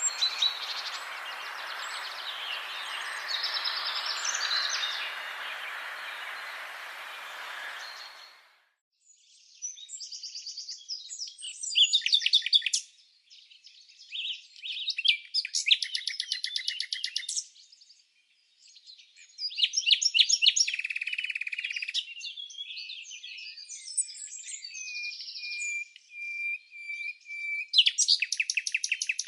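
Songbirds singing. For the first eight seconds or so the calls sit over a steady background hiss. The hiss then cuts off suddenly, and clear song phrases of fast repeated notes and trills follow one after another, with short silent gaps between them.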